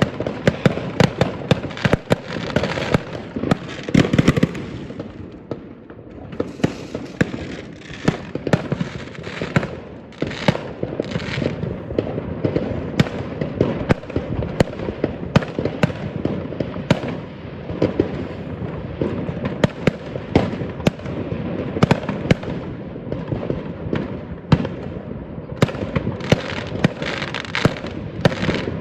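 New Year fireworks going off continuously: a dense, irregular barrage of sharp bangs and cracks from many rockets and firecrackers over a steady background rumble.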